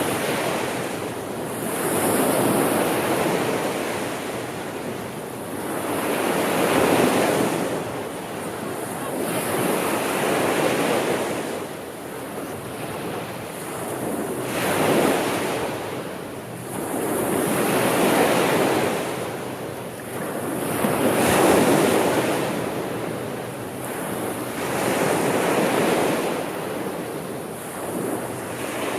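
Gentle sea surf: waves rolling in and washing back, with the rush rising and falling once every three to four seconds.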